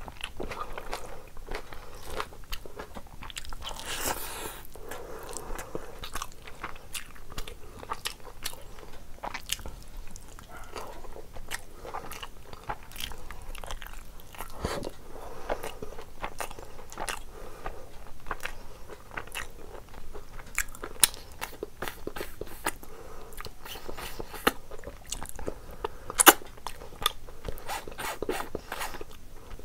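A person eating mutton curry and rice by hand: steady wet chewing and biting with many short mouth clicks, a few sharper ones near the end.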